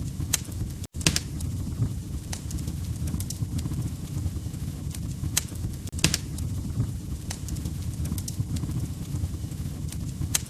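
Wood fire crackling in a fireplace: a steady low rumble of flames with sharp, irregular pops and snaps from the burning logs. The sound drops out for a split second just before one second in.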